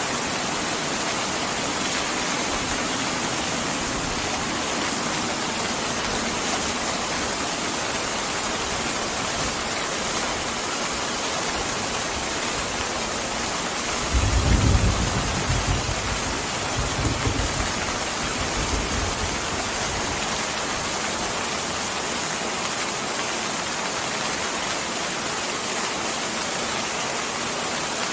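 Steady heavy rain falling. About halfway through, a low rumble of thunder rolls for a few seconds and fades back under the rain.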